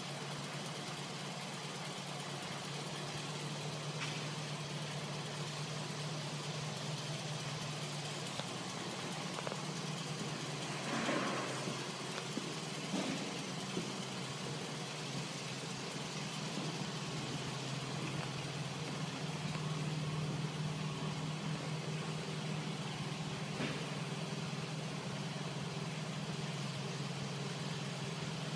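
2007 Scion tC's 2.4-litre four-cylinder engine idling steadily, with a brief scuffing noise about eleven seconds in and a few faint clicks.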